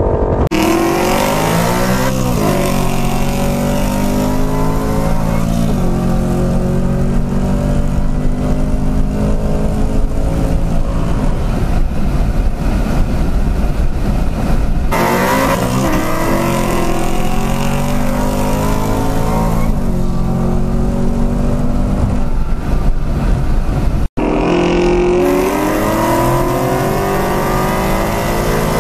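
Modified Ford Mustang Coyote 5.0 V8s at full throttle in a high-speed roll race, heard from inside the car. The engine note climbs through each gear and drops at every upshift, over heavy wind and road noise. There is a brief dropout a little past 24 seconds.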